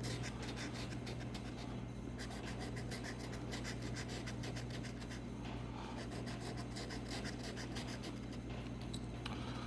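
An instant lottery scratch-off ticket being scratched, a quick, continuous run of short scrapes, over a steady low electrical hum.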